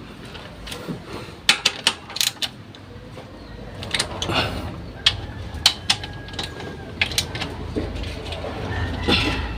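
Irregular clicks and clinks of hand tools on metal car parts during fuel-system work.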